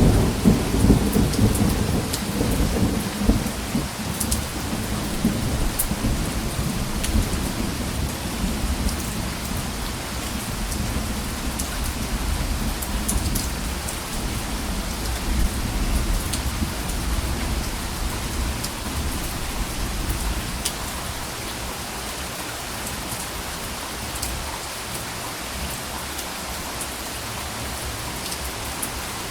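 Steady rain falling, with scattered drops ticking, over a low thunder rumble that is loudest at the start and dies away over the first half.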